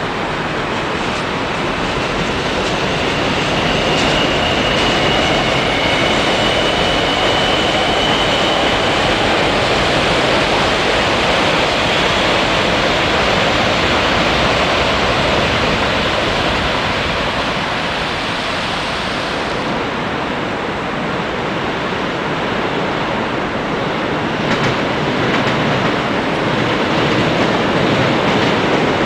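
Seoul Subway Line 1 electric commuter train running past on the railway bridge: a steady rush and rumble of wheels on rails, with a faint high whine for several seconds a few seconds in.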